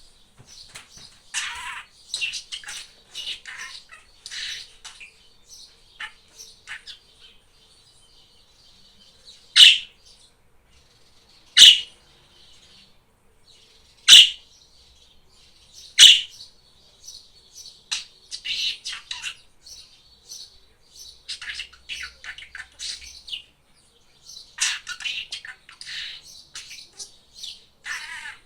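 Pet budgerigar chattering in quick high bursts, with four loud, sharp calls about two seconds apart in the middle before the chatter resumes.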